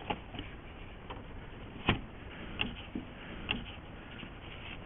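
A handful of scattered light clicks and knocks, one louder about two seconds in, over a low steady background hiss.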